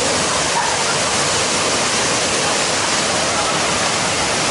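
Waterfall rushing: a steady, even wash of falling water with no break.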